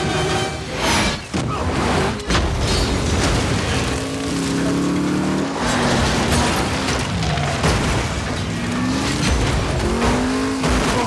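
Film action sound mix of car engines revving up and down and tyres skidding, with several sharp crash impacts in the first couple of seconds, all over music from the score.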